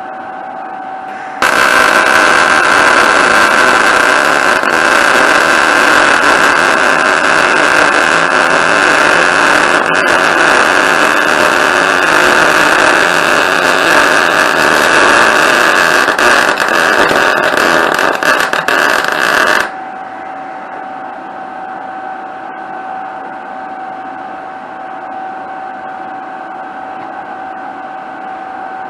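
Electric arc welding: a steady crackle and sizzle of the arc running a bead for about eighteen seconds, starting and stopping abruptly, over a faint steady hum.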